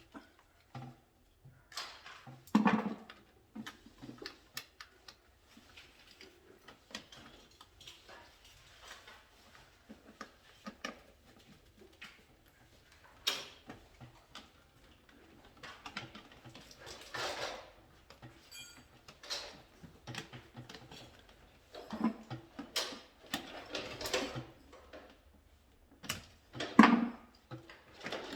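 Irregular clicks, knocks and rustling of hand work on an electrical control panel: tools, wires and small parts being handled, with a louder knock about three seconds in and another near the end.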